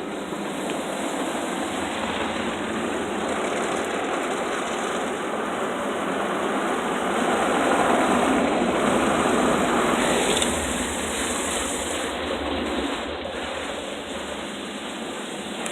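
PDQ ProTouch automatic car wash equipment running over the car, a steady rushing of spray or air that swells to its loudest about halfway through and then eases off.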